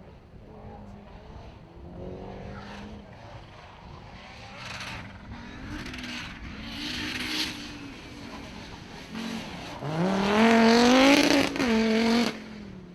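Rally car engine accelerating hard, its pitch climbing again and again as it shifts up through the gears and gets louder. It is loudest from about ten to twelve seconds in, then drops away suddenly.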